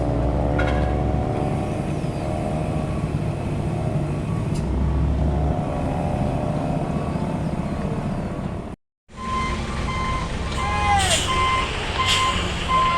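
Heavy truck's diesel engine running, its pitch shifting a little. After a sudden break, a reversing alarm beeps in a steady rhythm, with a few short sharp air-brake hisses.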